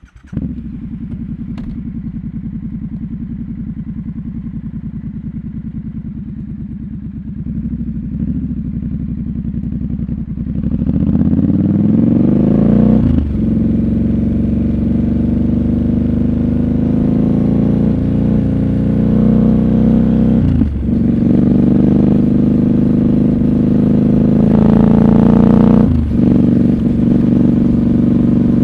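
Triumph Scrambler 1200 XC's parallel-twin engine running steadily at low revs, then pulling away and accelerating. The revs climb and break off in three gear changes, about 13, 21 and 26 seconds in.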